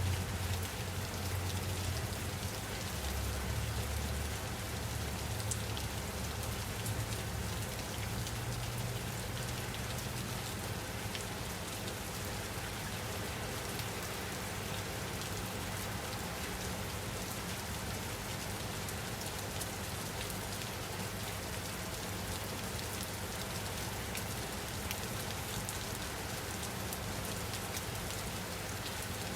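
Steady rain falling on a surface: a dense, even patter of drops, with a low rumble under it during the first several seconds.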